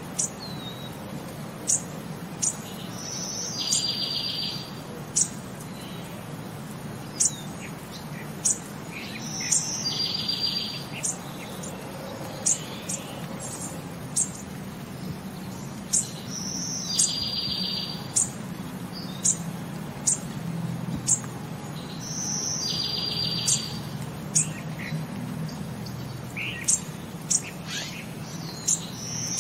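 Small birds chirping: many quick, sharp high chirps, and a longer buzzy trill that comes back about every six and a half seconds, over a faint low hum.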